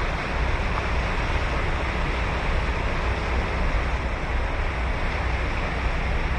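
Ocean surf breaking and washing ashore, a steady, even rush of water with a deep low rumble and no single wave standing out.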